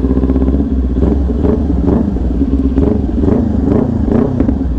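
Kawasaki Ninja 400's parallel-twin engine through an SC Project aftermarket exhaust, its engine speed rising and falling in quick blips about twice a second, then settling back to a steady note near the end.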